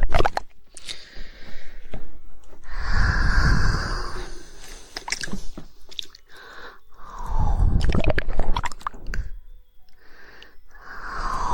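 Close-miked ASMR mouth sounds: runs of sharp 'woodpecker' tongue clicks alternating with longer breathy, wet mouth noises every few seconds.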